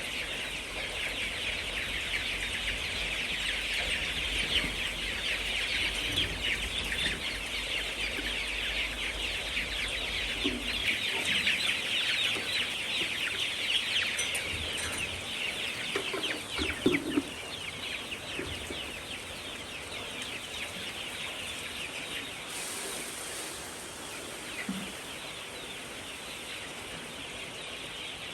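A flock of chickens calling, many overlapping clucks and cheeps at once, thinning out in the last third. A low rumble underneath stops about eleven seconds in.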